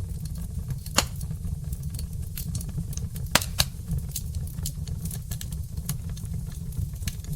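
Burning logs crackling in a fireplace: a steady low rumble of the flames under a scatter of small ticks. Sharp pops come about a second in and twice in quick succession a little past three seconds.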